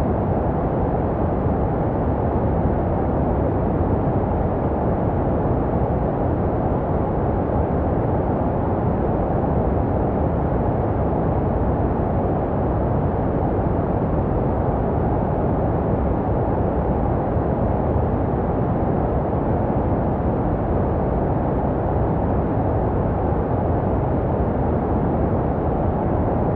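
Steady, unbroken white noise for baby sleep, muffled, with most of the sound low and little treble, made to resemble the sounds heard in the womb.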